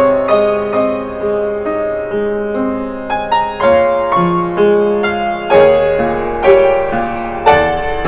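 Yamaha B1 upright piano playing a gentle, flowing arpeggiated accompaniment under a melody, each note struck and ringing on.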